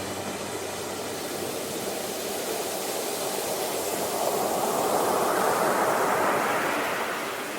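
Ocean waves on a shore. A steady rush of surf swells into one wave breaking and washing in about five seconds in, then eases off.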